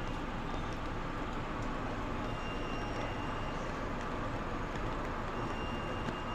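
Steady ambience of a rain-soaked city street: an even wash of rain and crowd noise with no single sound standing out.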